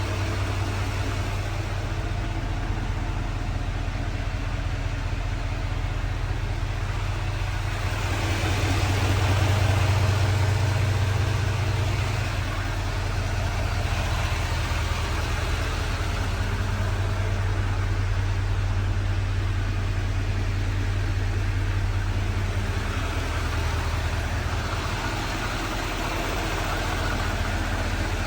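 Diesel pickup truck engine, the Silverado 3500's 6.6-litre Duramax turbodiesel V8, idling steadily. It gets a little louder for a few seconds about ten seconds in.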